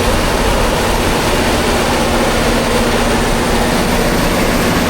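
Engine running steadily at high idle just after a cold start; it has no low idle and goes straight to high idle once it fires.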